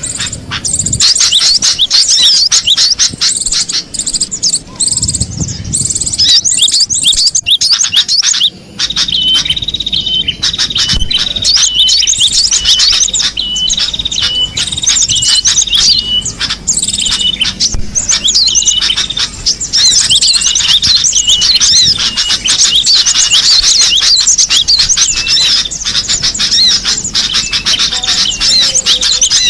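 Cinereous tit (gelatik batu) calling and singing with rapid high chirps, joined for a stretch in the middle by a short note repeated at an even pace.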